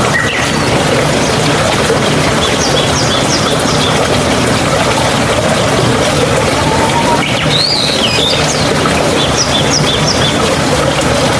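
Steady rush of flowing water, with birds chirping over it: a quick run of short high notes about three seconds in, a rising-and-falling call past the middle, and another short run of notes near the end.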